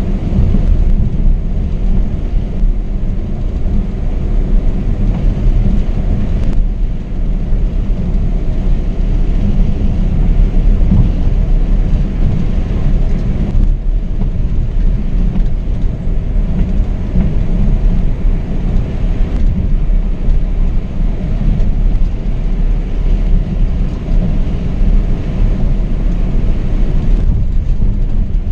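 Scania K420 double-decker coach under way at road speed: a steady low rumble of engine, drivetrain and tyre noise, heard from the driver's position.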